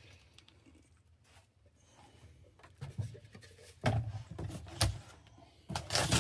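Several short knocks and clatters of tools and parts being handled, starting about three seconds in after a quiet start, the loudest near the end.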